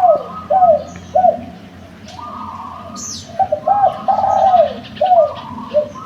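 Spotted dove (derkuku) cooing: a phrase of short arched coo notes at the start and another from about three and a half seconds in. A brief high chirp from another bird comes about three seconds in.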